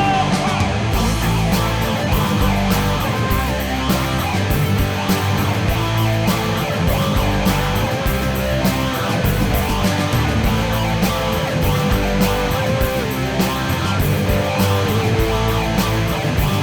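Instrumental break of a live worship rock band: electric guitar lead over bass and a steady drum beat, with no singing.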